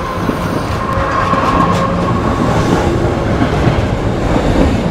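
Sound effect of a train passing at speed: a steady, loud rush of wheels on rails, with a faint steady whine in the first half.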